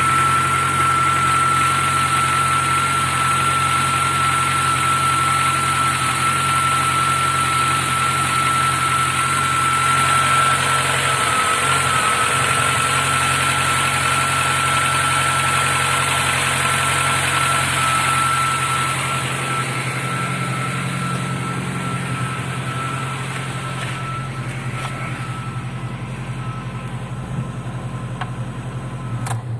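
Fuel-injected four-cylinder engine of a VAZ 2106 (Lada) idling steadily, with a steady high whine over the engine note. It grows gradually quieter over the last third and cuts off with a click at the very end.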